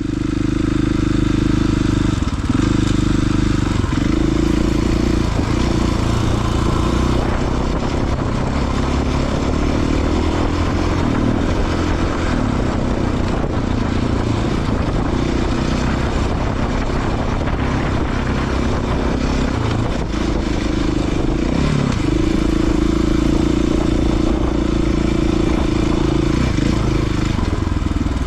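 Off-road motorcycle engine running under changing throttle, its pitch rising and falling.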